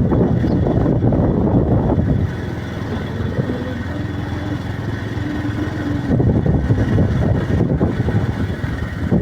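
Motorcycle engine running while riding. It is heavier in the first two seconds and again from about six seconds in, and lighter in between.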